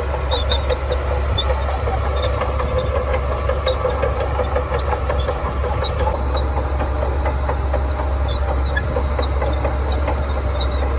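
Heavy diesel engine of earthmoving machinery running steadily, with a constant low drone and no breaks.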